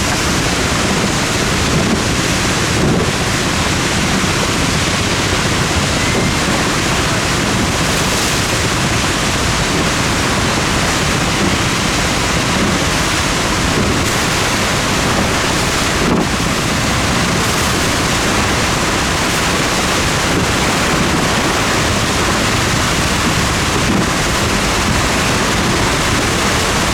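Rhine Falls waterfall heard close up: a loud, steady rush of falling water, with wind buffeting the microphone.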